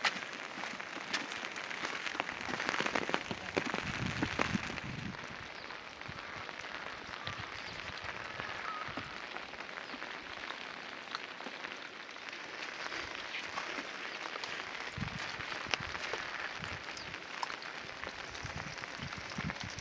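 Steady rain falling on surfaces, a dense patter of small drop ticks, with a few duller low thumps about four seconds in and again near fifteen seconds.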